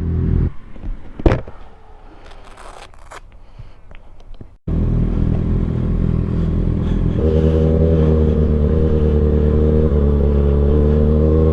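Sport bike's inline-four engine running at a steady note. About half a second in it gives way for roughly four seconds to quieter scraping and clicking, then the engine note cuts back in abruptly and holds steady, growing fuller about halfway through.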